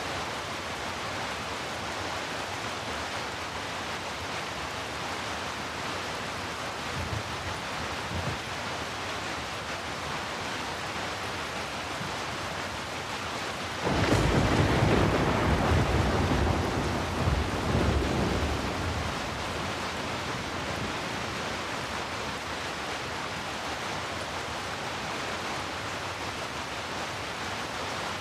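Steady rain, with a sudden clap of thunder about halfway through that rolls on for several seconds and fades back into the rain; a faint low rumble comes a few seconds earlier.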